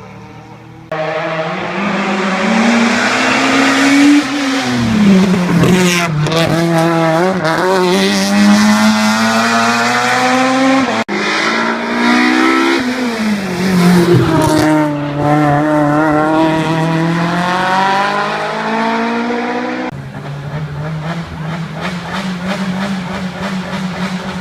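Renault hillclimb race cars driven flat out, engines revving high and dropping back as they shift gears, in three short passes joined by abrupt cuts.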